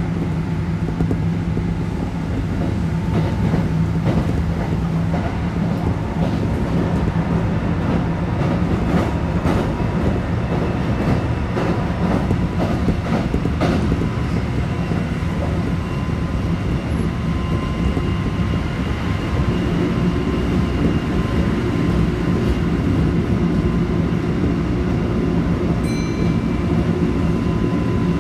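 Kintetsu 1220 series electric train with an early Hitachi GTO-VVVF inverter running between stations, heard from inside the car: a steady rumbling hum with faint steady whining tones above it. Wheels click over rail joints, mostly in the first half.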